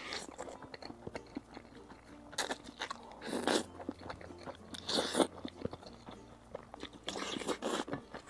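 Close-miked chewing of a big mouthful of rice mixed with dry spicy gluten strips (latiao), with crunching coming in about five short bursts.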